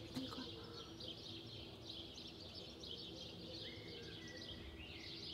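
Small songbirds chirping and twittering continuously, with a faint steady low hum underneath.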